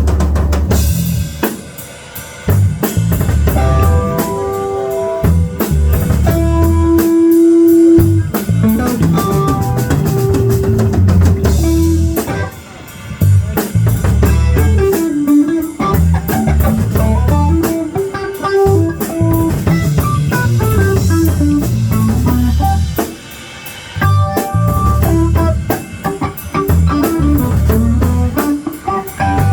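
A live rock band playing an instrumental passage: a drum kit and electric guitar, loud, with bass underneath. The playing drops back briefly three times.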